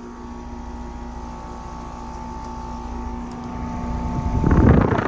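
Nordyne 4-ton central air conditioner condenser running, its compressor and fan motor giving a steady hum. About four seconds in, a loud rushing noise swells up over the hum and dies away near the end.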